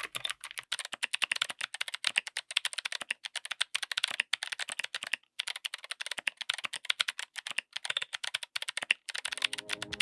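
Typing on a mechanical keyboard fitted with clicky switches: a fast, continuous run of sharp key clicks, with a brief pause about five seconds in.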